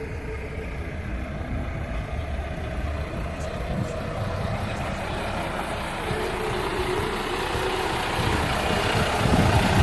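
Heavy truck engine running, growing louder toward the end.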